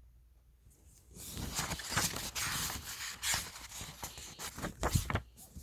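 Rustling, crackling noise made of many quick, irregular clicks, starting about a second in and stopping shortly before the end.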